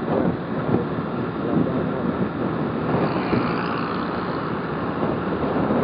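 Motorcycle riding along: the engine running under a steady rush of wind on the helmet microphone.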